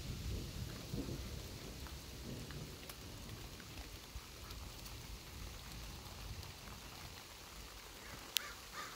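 Light rain falling steadily, a soft patter with scattered drop ticks over a low rumble. One sharp click near the end.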